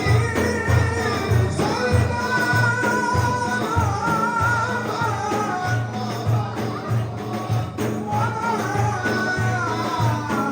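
Turkish Sufi devotional hymn (ilahi): a sung melody over a steady, regular hand-drum beat with jingles.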